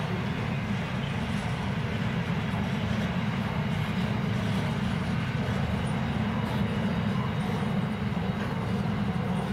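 Steady low rumble of a freight train's steel wagons rolling along the rails.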